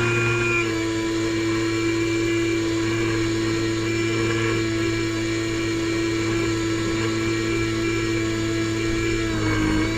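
Airboat engine and propeller running at a steady speed, with the pitch easing down slightly just after the start and again in the last second.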